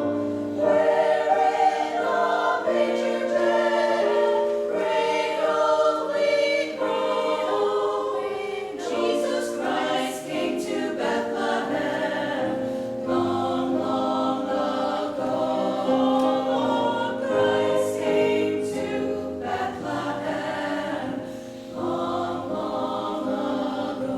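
Choir singing a Christmas choral arrangement in sustained harmony, the chords changing every second or two.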